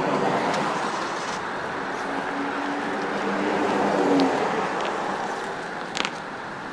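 A car passing by: its noise swells to a peak about four seconds in, with a steady engine hum, then fades away. A single short click near the end.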